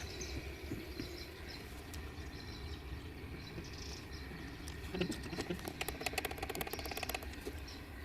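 A fast, even run of mechanical clicks lasting about two seconds, starting about five seconds in, over a steady low hum.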